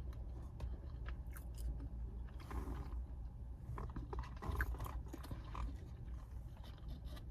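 A person chewing food close to the microphone, with small crunches and mouth clicks coming in uneven bursts over a steady low hum.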